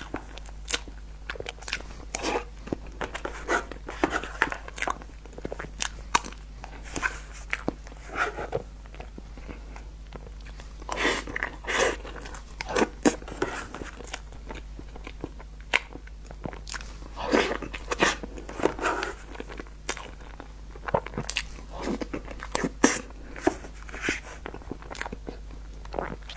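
Close-miked eating of soft cream cake: irregular wet chewing and lip-smacking with scattered sharp clicks, coming in bunches with short pauses between bites.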